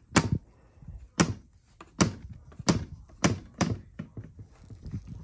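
Six sharp clacks of hard objects being knocked together or set down, spaced irregularly about half a second to a second apart.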